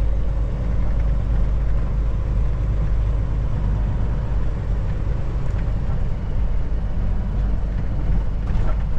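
Steady low drone of a Kenworth T680 semi truck's diesel engine and the road, heard from inside the cab while driving.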